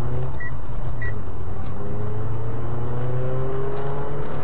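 Car engine running and slowly gaining speed over steady road noise. A short high beep sounds twice in the first second or so.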